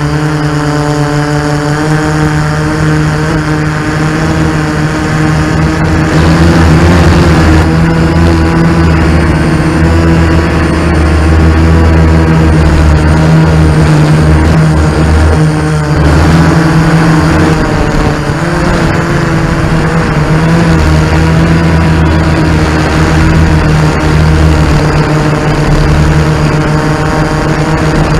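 Multirotor drone's motors and propellers humming steadily, with small shifts in pitch as the drone adjusts its flight.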